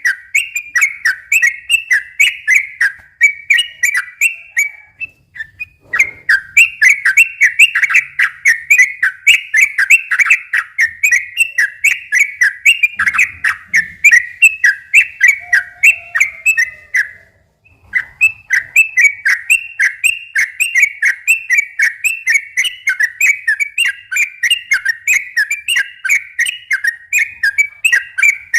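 Yellow-vented bulbul (trucukan) singing a fast, continuous run of short chattering whistled notes, about three a second. The run breaks off briefly twice.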